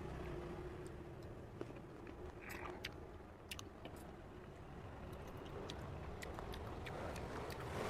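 Close-up chewing and biting into fresh cherries, with scattered sharp, wet mouth clicks.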